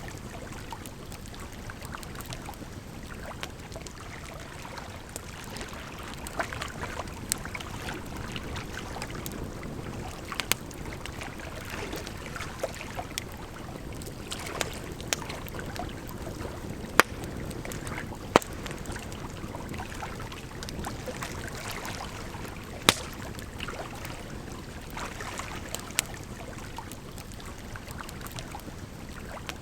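Campfire crackling, with sharp pops at irregular intervals, over a steady rush of flowing water.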